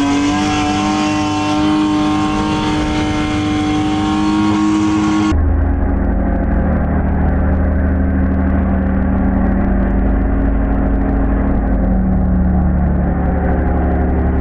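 Four-wheel-drive SUV's engine revving hard and held at high revs as it climbs through soft sand, its pitch creeping slowly upward. About five seconds in the sound cuts abruptly to a lower, deeper engine note that rises slightly near the end.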